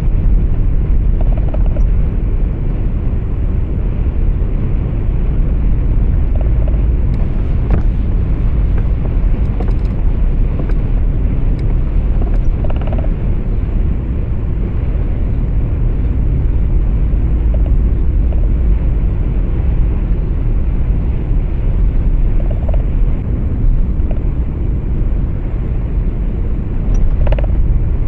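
Steady low rumble of a truck's cab while driving: engine and road noise, with a few faint short sounds in between.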